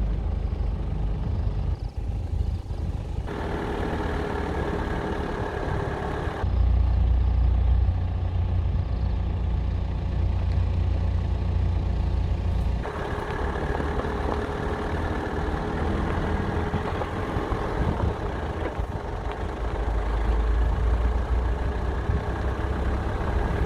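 A vehicle driving, with steady low engine and road rumble under a noisy haze. The sound changes abruptly several times, as separate stretches of driving are cut together.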